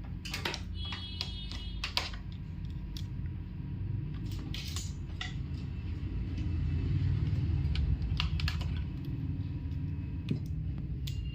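Scattered light clicks and taps from handling a smartphone and plugging a USB charging cable into it, over a steady low hum.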